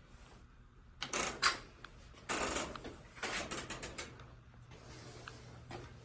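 Hands working on a washing machine: several short bursts of clicking and rattling, the first about a second in and two more over the next few seconds, then a few faint single clicks.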